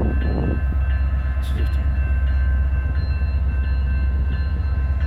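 Canadian Pacific diesel locomotives pulling a train away under power: a heavy, steady low engine rumble with faint high whining tones above it.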